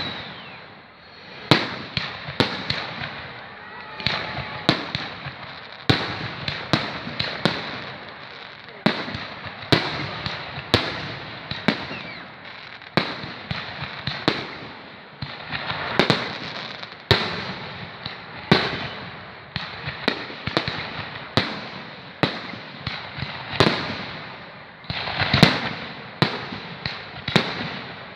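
Fireworks display: a continuous series of sharp aerial shell bursts, about one to two a second, each followed by an echoing tail.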